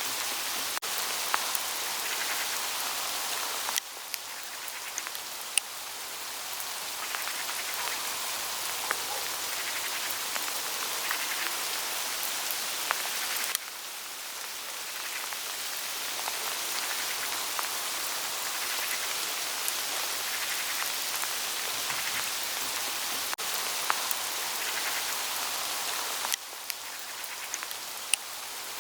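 Hail falling on autumn foliage, a steady rustling hiss of many small impacts with scattered sharper ticks. The level drops suddenly about four seconds in, about halfway through and near the end, then builds back each time.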